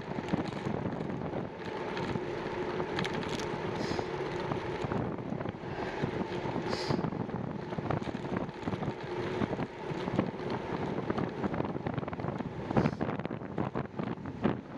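Wind buffeting the microphone of a camera on a moving bicycle, with rolling tyre and drivetrain noise and occasional small knocks from the ride. A faint steady hum sits under the rush for the first part and fades out later on.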